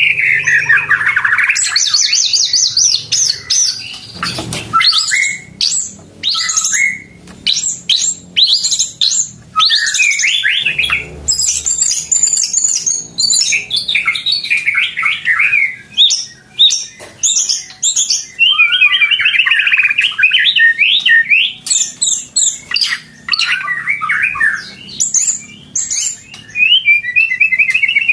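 White-rumped shama (murai batu) singing loudly and continuously: rich whistled phrases that sweep up and down, alternating with rapid runs of sharp chipping notes, with only brief pauses.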